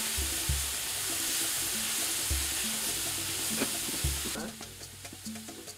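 Curry sauce sizzling in hot oil in a pot as it is stirred with a wooden spoon, a steady hiss that cuts off suddenly about four seconds in.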